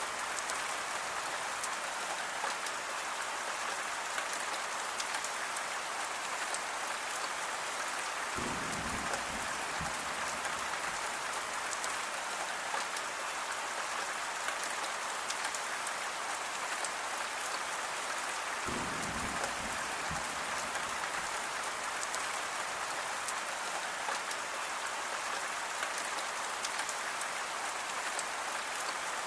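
Steady rain falling, an even hiss of many drops, with a brief low rumble about a third of the way through and again about two thirds through.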